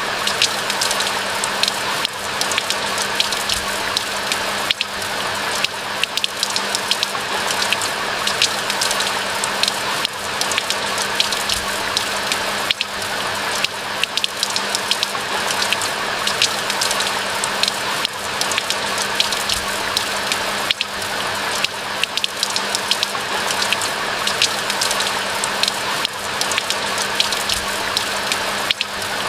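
Steady rain falling in a pine forest, a dense even hiss full of individual drops ticking, with a faint steady low hum underneath.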